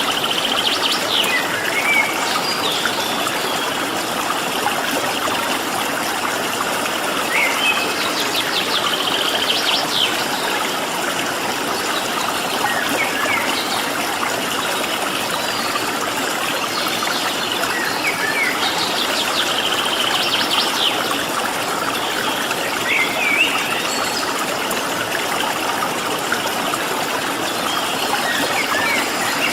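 Steady rush of flowing water, with a small bird calling over it every few seconds in short chirps and quick trills.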